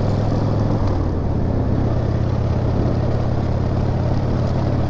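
Harley-Davidson motorcycle's V-twin engine running under way; its note steps up slightly about a second in and then holds steady.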